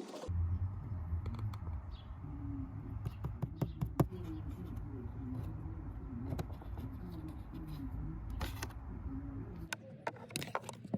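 Scattered sharp plastic clicks and handling noises from working on the Toyota RAV4's glove box and cabin air filter housing by hand, over a steady low hum; the loudest click comes about four seconds in.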